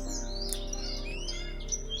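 Birds chirping and twittering over soft background music with long held notes.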